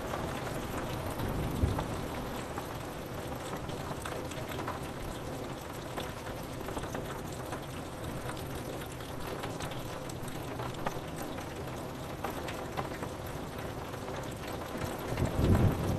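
Steady rain pattering on a window pane, with many small drop ticks. A low rumble of distant thunder swells up near the end.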